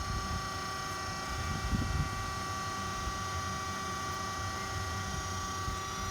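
DoAll D6-1 hydraulic surface grinder running with its spindle motor and hydraulic pump on: a steady hum and whine of several held tones over a low rumble.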